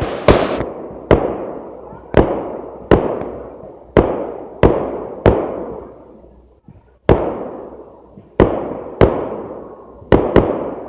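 Fireworks bursting in quick succession: about a dozen sharp bangs, each trailing off in a rolling echo, with a short lull about six seconds in.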